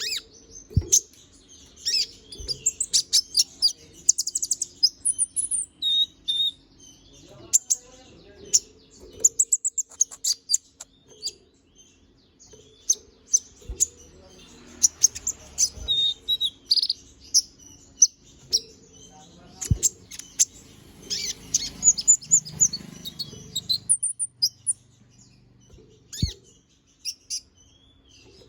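A konin (kolibri ninja) sunbird singing in fast bursts of high, thin chirps and twitters, with pauses of a second or two between bursts. A few sharp clicks fall between the phrases.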